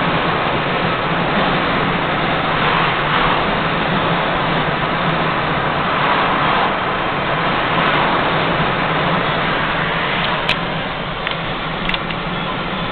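Steady engine and road noise inside the cab of a 2000 GMC 2500HD dump truck on the move, with two short clicks near the end.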